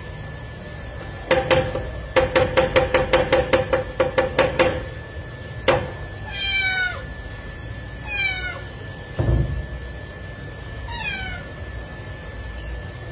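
A quick run of about a dozen sharp knocks, then a cat meowing three times, each call falling in pitch, with a dull thump between the second and third meow. A faint steady high tone runs underneath.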